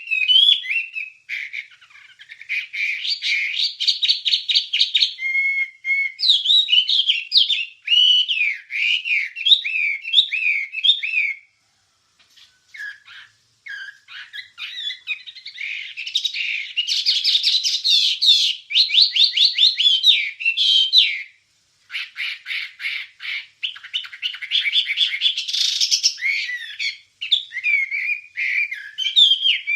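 A wambie songbird singing a long varied chattering song: fast repeated trills, scratchy notes and short whistles, with a couple of brief pauses along the way.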